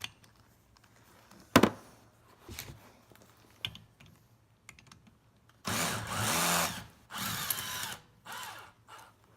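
A power drill/driver runs in three short bursts, its motor pitch changing, as it works bolts out of a semi-hermetic compressor's valve; a sharp metal knock comes about a second and a half in.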